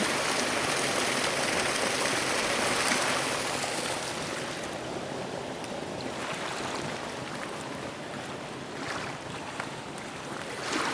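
A motorboat (katер) under way: water rushing and splashing along the hull, with wind on the microphone. The rush eases off a little about four seconds in.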